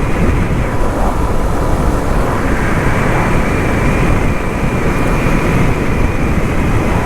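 Steady rush of wind on the rider's microphone, mixed with the Suzuki DR-Z400SM supermoto's single-cylinder engine running at an even speed while riding.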